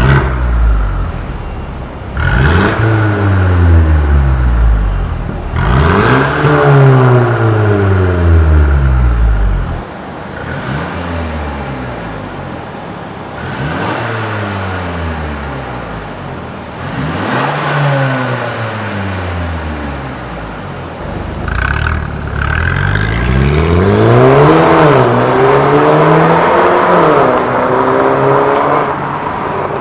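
Mercedes-Benz GLA250's turbocharged four-cylinder engine revved through an aftermarket valved exhaust: a run of quick blips that climb and fall back, then a longer rev held up near the end.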